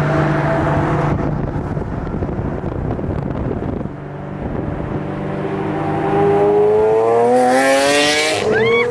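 Car engine running, then revving up with a steadily rising pitch over the last few seconds, with a brief loud hiss near the end.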